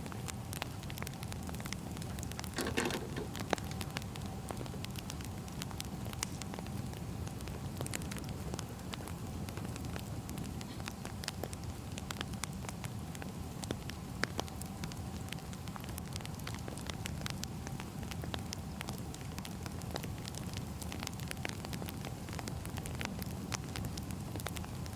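Burning firewood crackling: scattered sharp pops and snaps over a steady low rumble of the fire, with one brief louder burst about three seconds in.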